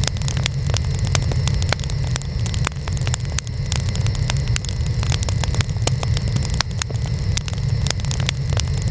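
Wood fire burning, with a steady low rumble under frequent sharp crackles and pops of burning wood, several a second.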